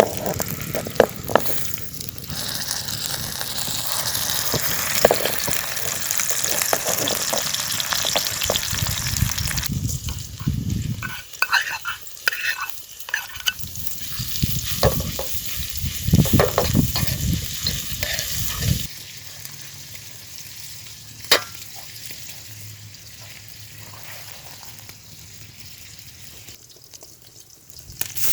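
Food sizzling in a frying pan, with a utensil stirring and knocking against the pan. The sizzle is strong for about the first ten seconds, then gives way to scattered knocks and scraping, and it turns quieter about two-thirds of the way through, with one sharp click.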